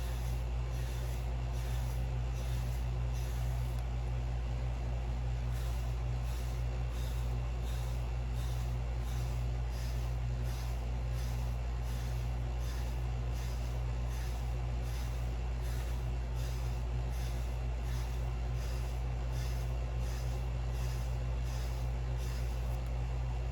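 A wave brush stroked repeatedly through short hair for 360 waves, about two scratchy strokes a second, over a steady low hum.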